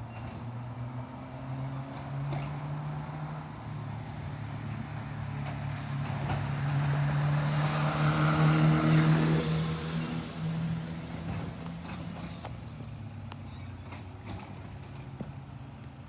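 Garbage truck's engine running, growing louder to a peak about halfway through and then fading away.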